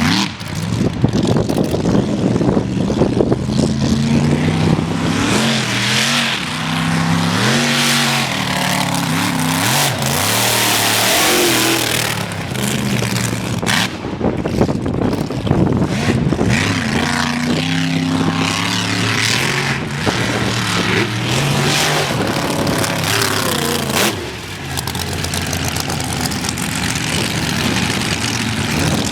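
Mega truck engine running hard under race throttle, its pitch rising and falling again and again as the driver works the throttle over the course. A loud hiss joins it about ten seconds in.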